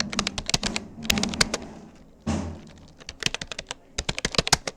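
Keys clattering on a Rapoo computer keyboard during touch typing, in quick irregular runs of keystrokes. There is a pause of about a second near the middle, broken by a single duller thump.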